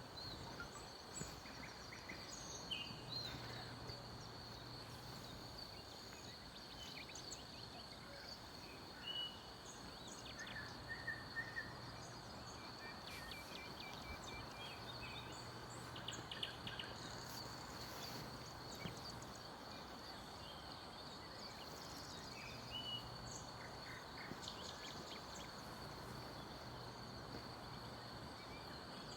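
Small forest birds calling and singing in early spring: scattered short chirps and quick trills, some in short rapid series, over a steady hiss and a faint, constant high whine.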